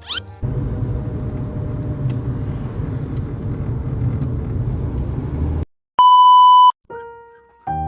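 A low rumbling noise for about five seconds cuts off suddenly. About six seconds in comes a loud steady beep of one pitch lasting under a second, the loudest sound here, then a fainter, shorter tone.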